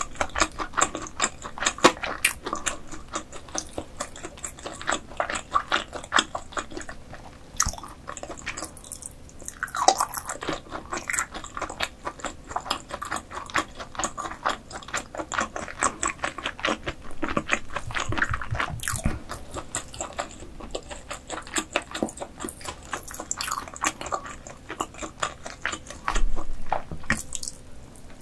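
Close-miked chewing and biting of food in a mouth: a dense, steady run of small wet clicks, several a second, with a few louder bites.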